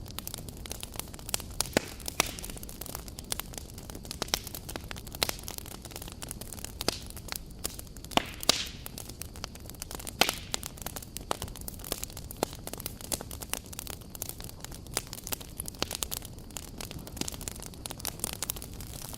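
Wood campfire burning: a steady low hiss with irregular crackles and sharp pops, several a second.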